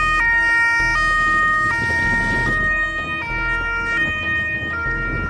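Two-tone emergency siren alternating between a high and a low note about every three-quarters of a second, over a steady background rumble.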